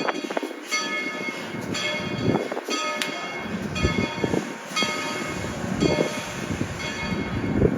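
Steam locomotive bell ringing, struck about once a second, over the low rumble of the moving train.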